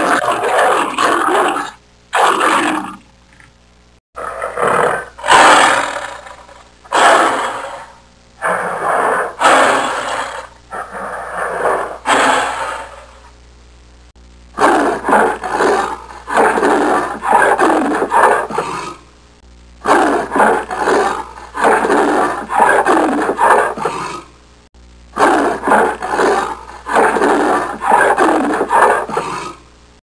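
Big cat calling: a long run of rough roars and grunts, each one to two seconds long, coming in groups separated by short pauses.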